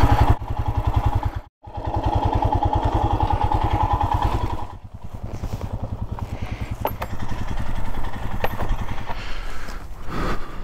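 Royal Enfield Himalayan's single-cylinder engine ticking over with an even, low thump, with a brief gap about one and a half seconds in. It runs on more quietly from about five seconds in, and a few sharp clicks come near the end.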